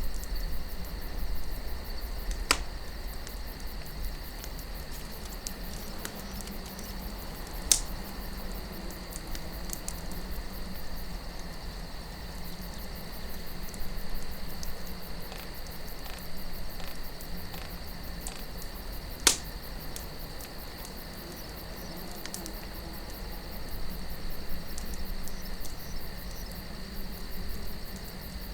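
Crickets chirping steadily over a low wind rush, with a wood campfire crackling: three sharp pops stand out, about two, eight and nineteen seconds in, among fainter ticks.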